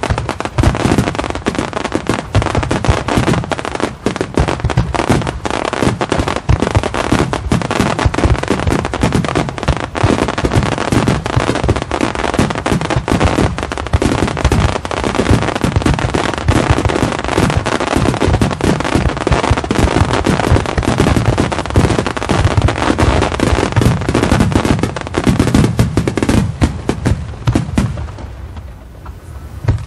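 Starmine fireworks barrage: many shells bursting in rapid, overlapping succession with crackling. It eases briefly near the end before more bursts come.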